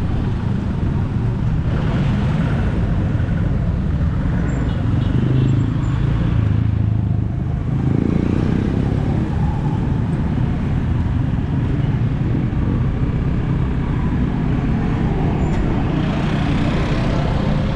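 Steady rush of wind and road noise from riding a motorcycle, with the engine running underneath.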